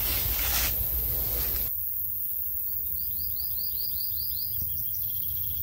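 A songbird singing a row of about eight quick, repeated, slurred notes, then a fast trill near the end, over a low steady outdoor background. The first second and a half holds a rough rustling noise that stops abruptly.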